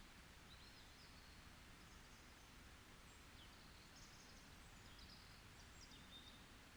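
Faint forest ambience: a soft steady hiss with scattered short, high bird chirps and twitters.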